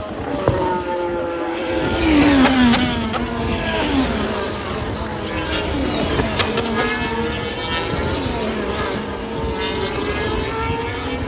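Racing cars passing at speed, several in quick succession, each engine note falling in pitch as it goes by.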